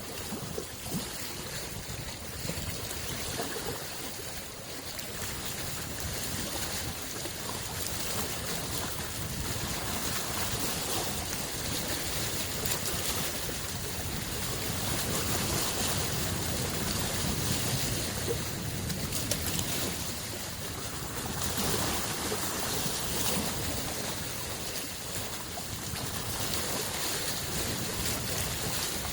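Small waves on a lake: a steady wash of water that swells and eases gently.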